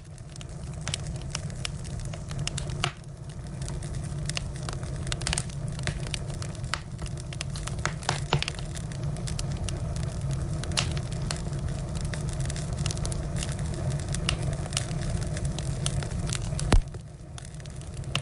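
Wood fire burning, with frequent sharp crackles and pops over a steady low rumble; one louder pop near the end.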